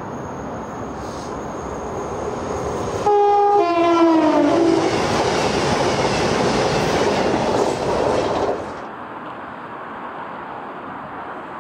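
A Class 221 Voyager diesel-electric train approaches and passes at speed. About three seconds in, its horn sounds for about a second and a half, the pitch dropping as the train goes by. The loud run of the passing train stops abruptly near the end, leaving a lower steady rumble.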